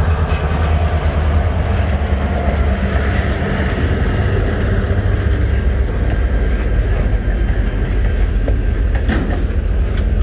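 Two diesel freight locomotives passing close by with a loud, steady low engine rumble, followed by a loaded flatcar rolling past on the rails. A few sharp clicks from the wheels come about nine seconds in.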